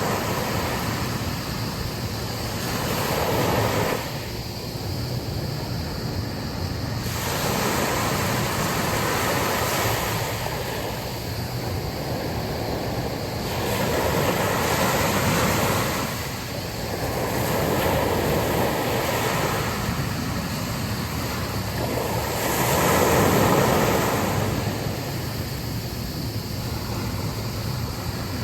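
Sea waves breaking and washing onto a beach in a steady rush that swells and fades every few seconds as each wave comes in.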